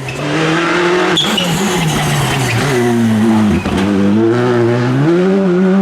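Rally car engine at high revs, its pitch rising and falling several times as the driver lifts off and goes back on the throttle, with a brief drop about halfway through; tyre noise runs underneath.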